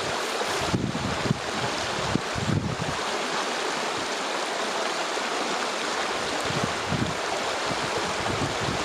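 Stream water rushing steadily over stones, an even continuous wash. A few brief low gusts of wind buffet the microphone, about a second and two and a half seconds in and again near the end.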